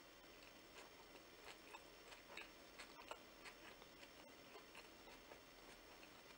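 Faint, irregular wet clicks of someone chewing a bite of a Vietnamese fresh rice-paper roll filled with lettuce and vegetables, mouth closed.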